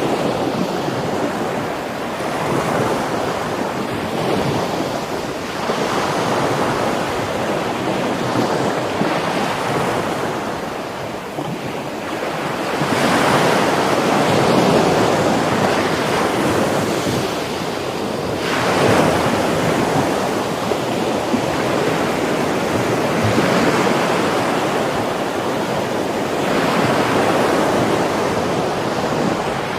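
Rough Mediterranean surf breaking on a beach, a steady loud rush of water that swells as each wave crashes in, a few big surges several seconds apart. Wind buffets the microphone.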